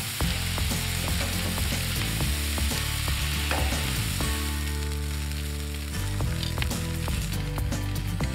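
Beef slider patties sizzling on a hot flat-top griddle: a steady frying hiss with small crackles, over low background music.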